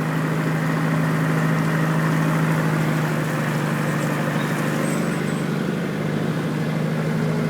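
Vehicle engine running with a steady hum, heard from on board, with a continuous wash of noise as it drives through deep floodwater.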